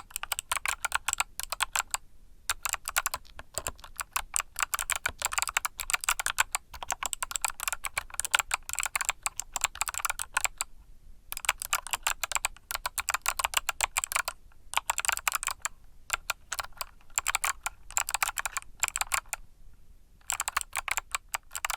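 Typing on a mechanical keyboard with Kailh Box Summer switches: quick runs of crisp keystroke clicks, broken by short pauses a few times.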